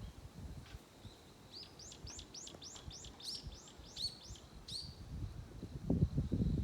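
A small songbird sings a quick run of about a dozen high notes, each sweeping down, at roughly four a second, then stops. A faint low rumbling noise rises near the end.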